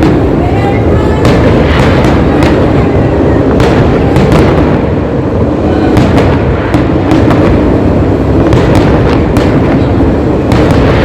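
Fireworks display: a rapid, continuous series of bangs and bursts over a constant low rumble.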